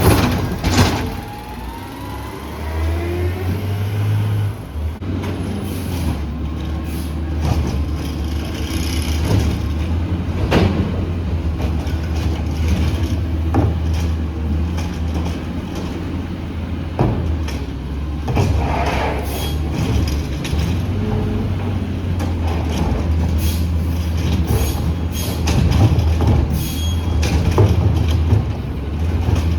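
Garbage truck's diesel engine running steadily at a low drone, with intermittent clanks and knocks and short hissing bursts from the truck working its route.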